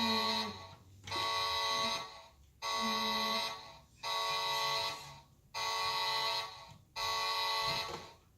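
Toy truck's electronic horn sound effect honking over and over: about six buzzy blasts of roughly a second each, with short gaps between them.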